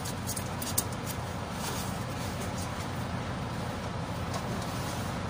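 Mitsubishi Canter truck's diesel engine idling steadily after its fuel feed pump has been replaced, with a few light clicks about a second in.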